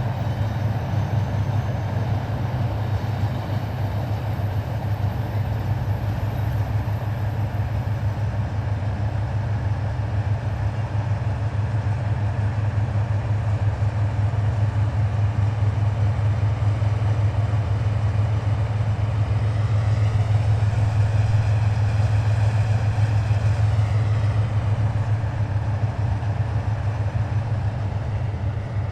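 Heavy military vehicles driving past in a column, their diesel engines making a steady deep rumble. The rumble swells a little about two-thirds of the way through as a vehicle passes close.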